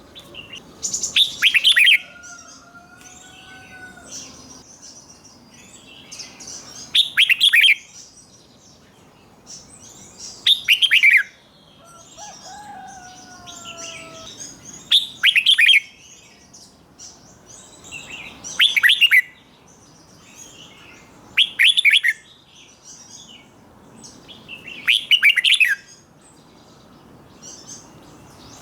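Red-whiskered bulbul singing: a loud, short song phrase about every three and a half to four seconds, seven in all, with softer chirps between. A fainter whistled note glides along twice, early on and near the middle.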